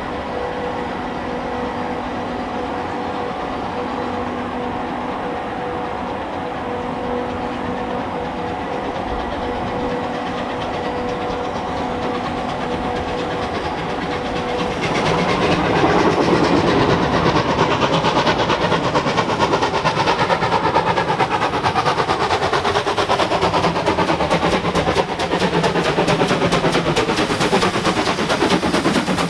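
A train on a heritage railway: a steady sound with held tones for the first half, then louder from about halfway as it passes, with curving sweeps in pitch and a fast rhythmic clatter in the last few seconds.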